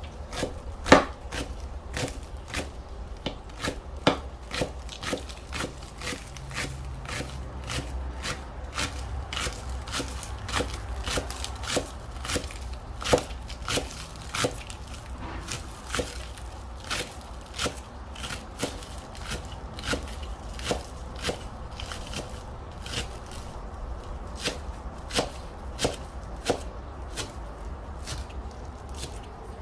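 Kitchen knife slicing green onions into thin rounds on a cutting board: a long run of sharp, irregular knife strikes, about two a second.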